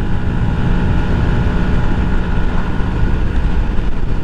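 Yamaha 125 cc single-cylinder four-stroke motorcycle engine running steadily while riding, picked up by a helmet-mounted camera together with wind and road noise.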